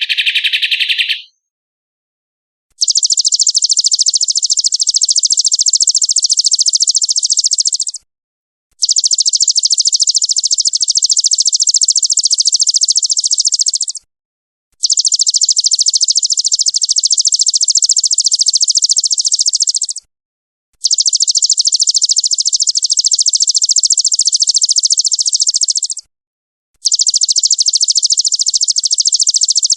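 Recorded songbird chatter for masteran training: a very fast, harsh, evenly pulsed high trill, played in five runs of about five seconds each with short breaks between them, after a brief different call at the start.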